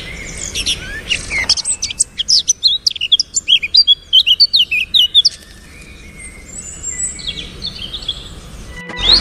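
Small birds chirping: many quick, high chirps, some rising and some falling, busiest in the first half, then thinning to a few fainter calls.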